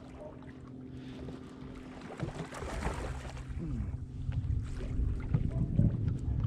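A steady boat hum runs under a hooked bass being fought and landed beside the boat. A rush of water splashing comes about two and a half seconds in, and heavier rumbling knocks of boat handling come near the end.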